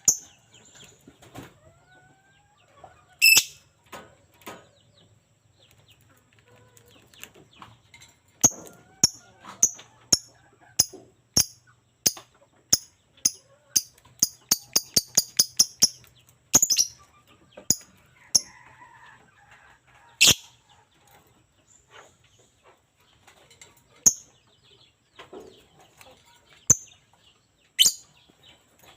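Lovebird calling with sharp, high-pitched chirps: scattered single calls, then a long run of rapid chirps through the middle that speeds up, then scattered calls again.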